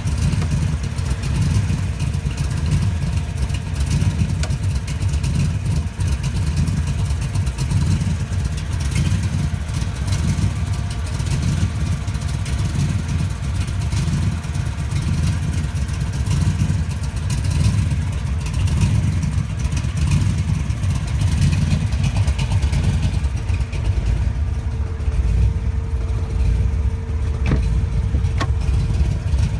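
A 1966 Cobra's V8 engine running steadily at low revs, an even pulsing low-pitched exhaust note.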